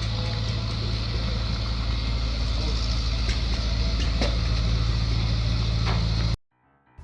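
Steady low drone of a running motor vehicle, with a few faint clicks; it cuts off abruptly near the end.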